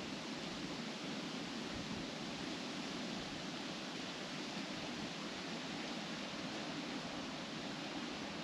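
Wind blowing steadily through trees, the leaves rustling in an even, unbroken wash of sound.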